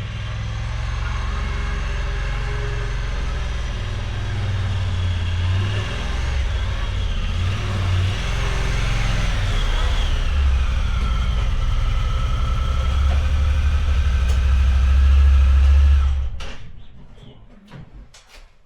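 Honda Talon side-by-side's engine running, its revs rising and falling, strongest in a low drone. It fades out about sixteen seconds in.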